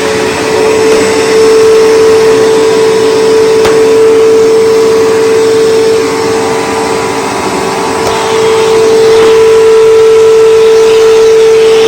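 Bissell PowerForce Bagged 3522 upright vacuum cleaner from 2002 running: a steady motor whine with one strong held tone, its loudness swelling and dipping slightly a few times.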